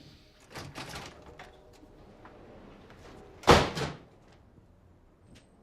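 A few scattered knocks and clatter, then one loud bang about three and a half seconds in that rings briefly.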